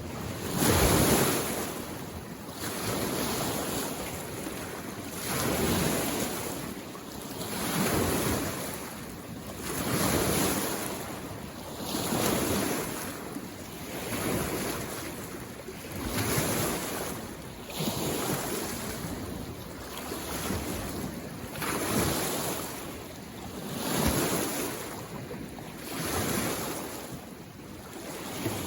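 Small waves on a mountain lake coming in against the shore, each swelling into a wash and falling away, about one every two seconds in a steady rhythm.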